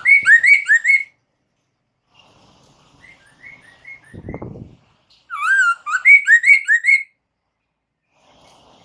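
Poksay mandarin, a laughingthrush, singing: two loud phrases of quick rising whistled notes, each note repeated about six times. Between the phrases there is a softer run of notes, and a low thud about four seconds in.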